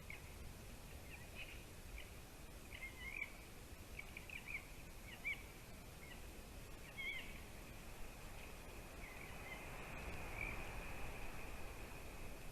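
Faint, unidentified high chirps: many short, quick, bird-like calls, followed about halfway through by a thin, steady high tone.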